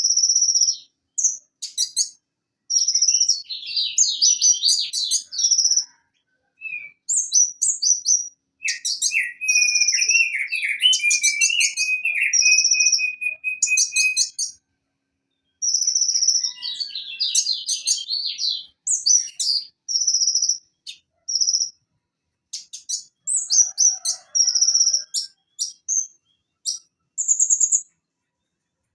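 Van Hasselt's sunbird (Leptocoma sperata) singing: bursts of high, sharp whistled notes and fast trills, broken by short pauses, with a lower rattling trill held for several seconds near the middle.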